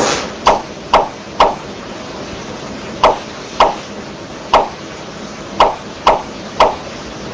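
A series of about nine sharp knocks at uneven intervals, over a steady hiss.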